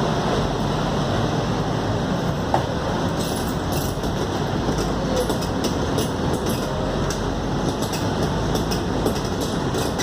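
Scania K280UD double-decker bus under way, a steady drone of engine and road noise with the rattling of its body and fittings, the rattles growing busier from about three seconds in.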